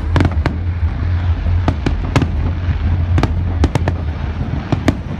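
Aerial fireworks bursting: about a dozen sharp, irregularly spaced bangs over a steady low rumble.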